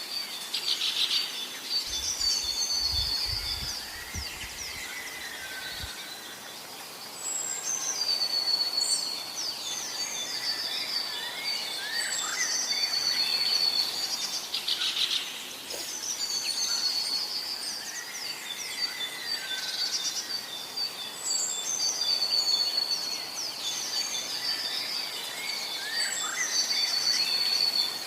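Several songbirds singing and calling outdoors: short chirps, whistled notes and trills, over faint background noise. A brief low rumble comes a few seconds in.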